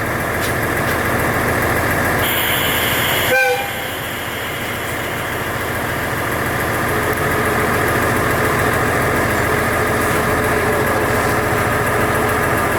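Train running steadily. Just before three and a half seconds in there is a burst of hiss, followed by a short toot.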